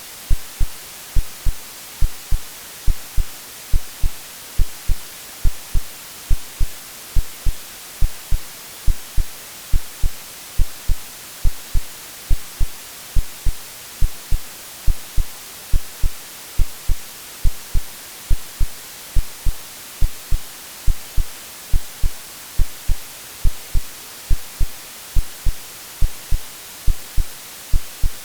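Synthetic heartbeat, a steady lub-dub of paired low thumps about once a second, over constant white-noise hiss, mixed as a womb-like soothing sound for babies.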